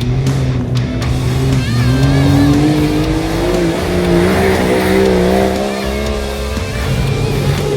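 Off-road race car engine running hard, its pitch climbing slowly for a few seconds, holding, then dropping sharply about two-thirds of the way through, with music underneath.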